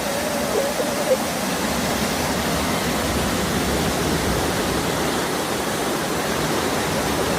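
Waterfall rushing steadily, a loud even wash of falling water. A brief faint tone sounds over it about a second in.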